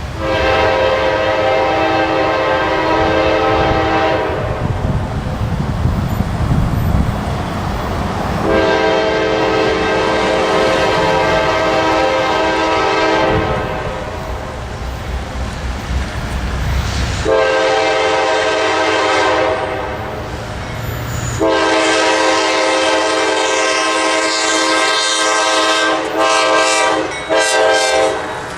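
CSX freight locomotive's air horn sounding the grade-crossing signal: two long blasts, a short one, then a long one. A low rumble from the approaching train runs under the first half.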